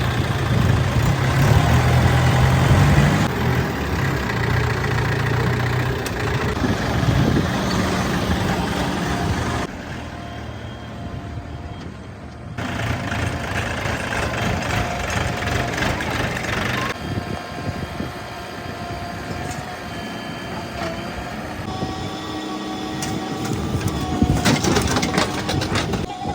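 Heavy diesel engines of earthmoving machinery running, in several takes that change abruptly from one to the next, with a few clanks near the end.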